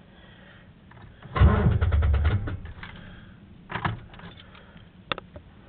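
A 1974 Chevrolet pickup being cranked by its starter for about a second, with rapid even cranking pulses, and the engine failing to catch and keep running; a shorter burst follows about two seconds later and a sharp click near the end. The truck is hard to start after sitting for two weeks.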